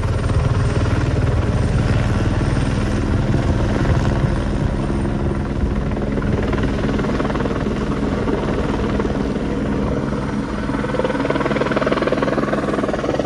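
Twin Squirrel (AS355) twin-turbine helicopter hovering close by on a sling-load lift, its main rotor beating steadily over the turbine noise. The sound is loud and continuous.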